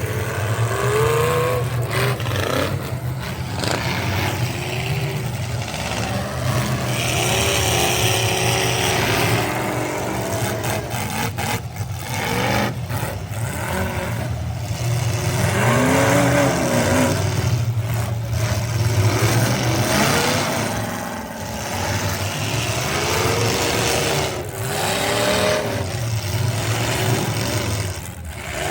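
Pro truck racing engines revving up and down over and over as the trucks race, over a steady low engine drone.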